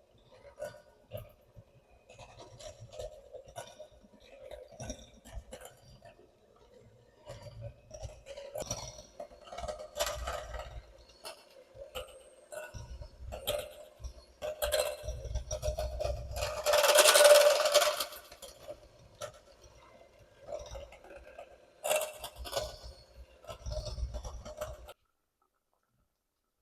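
Kitchen utensils clinking and scraping against bowls and dishes, with a louder rushing noise for about a second and a half midway and a faint steady hum underneath. It all stops suddenly near the end.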